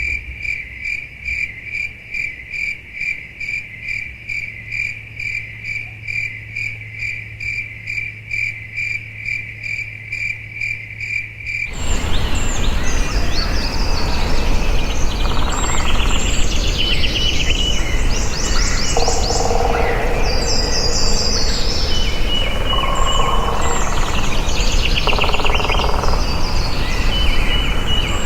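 Rainforest wildlife sounds. First, a single high call pulses evenly about three times a second, like an insect. About twelve seconds in it cuts off sharply and gives way to louder, hissing forest ambience full of bird chirps and scattered calls.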